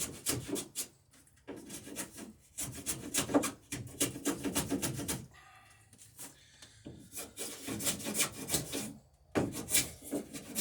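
Hand plane shaving wood in bursts of quick strokes with short pauses between them, truing the dory's plank surfaces so they meet and match.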